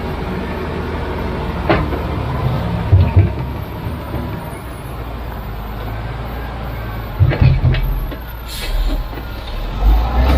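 Heavy diesel machinery running steadily, with a few short knocks about two, three and seven seconds in.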